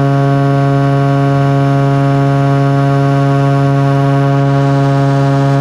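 Engine and propeller of a Cessna 185F floatplane running at steady high power, a loud even drone that holds one pitch without rising or falling.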